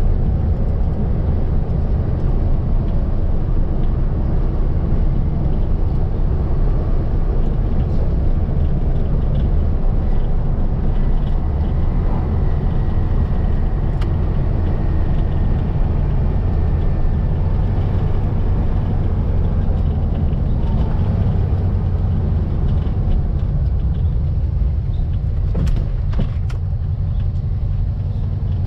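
The 1700cc air-cooled flat-four engine of a Volkswagen Baja Bug running while driving, a steady low drone. A few faint clicks come near the end as the engine eases off slightly.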